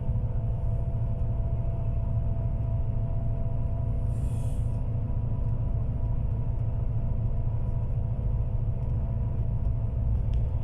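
Steady low rumble and drone of a moving bus, with a few steady hum tones running under it. A short hiss about four seconds in.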